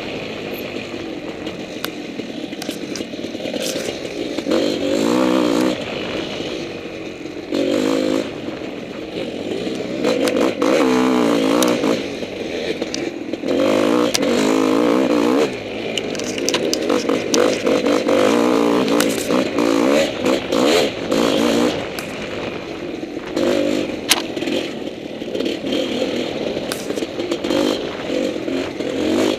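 Honda CR500's single-cylinder two-stroke engine revving up and falling back over and over as the dirt bike is ridden along a trail, with frequent clicks, scrapes and clatter mixed in.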